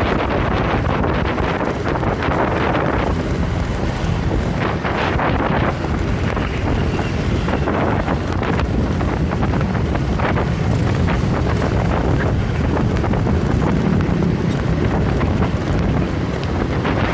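Wind buffeting the microphone: a steady, loud, low rumbling noise.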